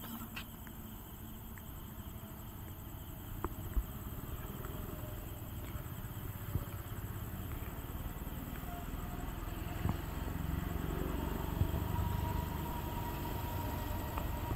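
Approaching express train rumbling, faint at first and growing steadily louder, with a few scattered sharp clicks.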